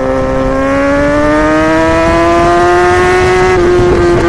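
Yamaha R6 inline-four engine pulling under acceleration, its high note rising slowly and steadily, then dipping slightly and breaking up into a choppy stutter near the end. The engine is on its stock, un-remapped tune.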